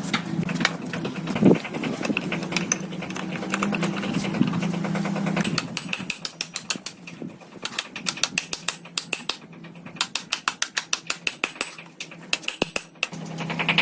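Quick runs of sharp mechanical clicking, over a low steady hum that stops about six seconds in.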